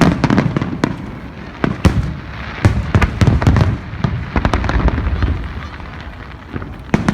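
Fireworks display: aerial shells bursting in a rapid, uneven series of sharp bangs and pops, with several loud reports close together.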